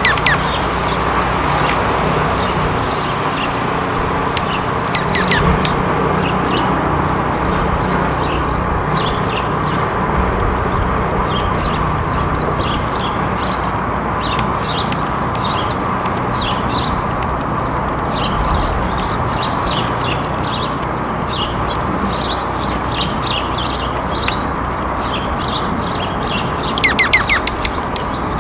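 Small birds chirping and twittering repeatedly over a steady background noise, with a louder cluster of calls near the end.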